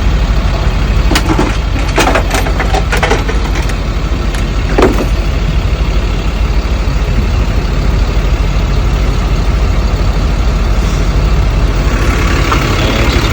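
A truck engine idling steadily, with several knocks and clanks in the first five seconds.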